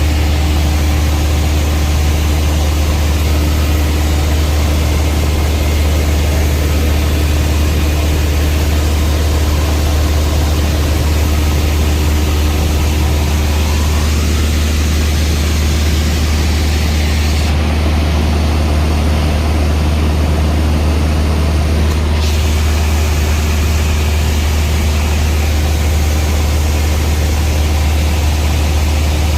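Loud, steady engine drone with a strong low hum and a hiss over it, unchanging throughout.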